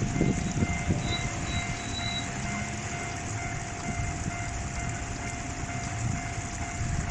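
A JR West electric train passing over a level crossing, with steady wheel-and-rail noise and low rumble. The crossing's warning bell rings in quick, evenly repeating dings.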